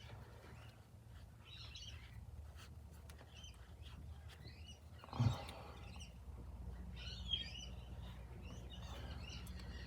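Faint birds chirping in the background over a low steady hum, with a single knock about five seconds in.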